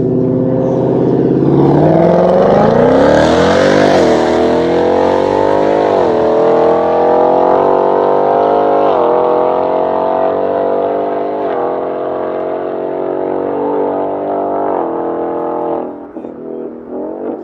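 Car engine idling, then revving hard as the car launches and accelerates away. The pitch climbs and drops back at each of about five upshifts before the sound falls away near the end.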